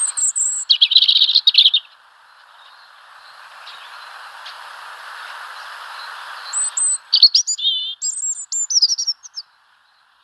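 Small birds chirping and twittering in two bouts, a high run of chirps then a dense twitter at the start and a run of quick rising and falling notes about seven seconds in, with a hiss that slowly grows louder between them. The sound cuts off abruptly near the end.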